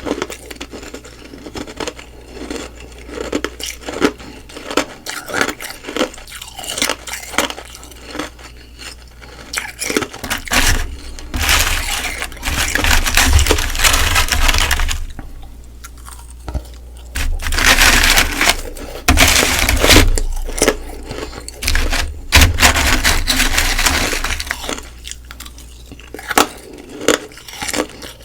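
Close-miked biting and chewing of humidifier-frost ice: crisp crunches and snaps for the first ten seconds or so, then longer stretches of dense, continuous crunching as mouthfuls are chewed.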